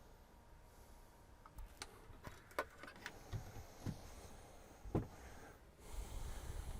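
Scattered light clicks and knocks of objects being handled, with a few low thuds; the two sharpest clicks come about two and a half and five seconds in.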